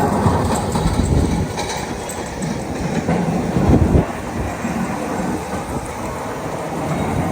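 Heavy snow-clearing equipment working the street drift: a deep diesel rumble with metal clanks and a heavier knock a little before the middle.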